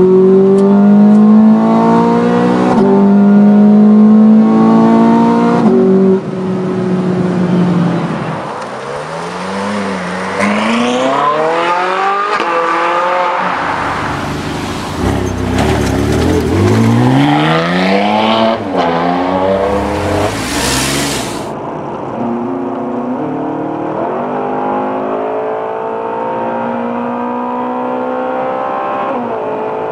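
Ferrari engines accelerating hard through the gears, one car after another: the pitch climbs, drops back at each upshift and climbs again, several times. The first is a 430 Scuderia's V8, heard from inside the car. Near the end a California's V8 pulls in one long, steady climb from inside the cabin.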